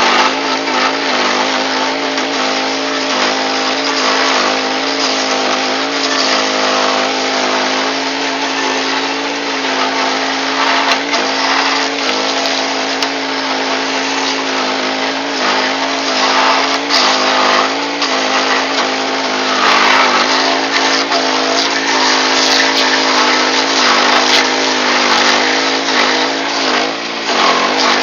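Power King stump grinder's engine running steadily under load while its cutting wheel grinds into a tree stump, the chewing noise swelling and easing as the wheel bites.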